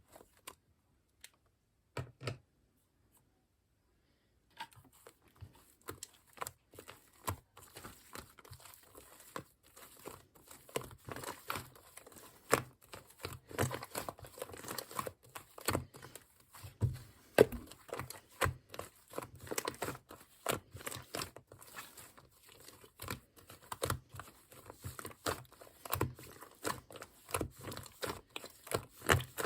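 Hands squishing and pressing shaving-foam slime, a dense run of small crackles and pops. Only a few scattered clicks for the first four seconds or so, then the crackling is continuous.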